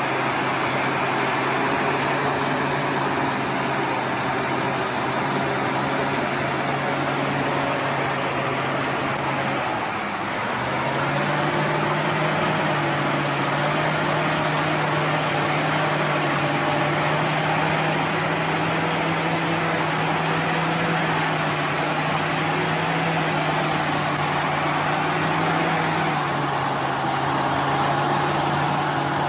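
A heavy truck's engine running steadily. About ten seconds in, its note dips briefly, then settles slightly higher, and it falls back near the end.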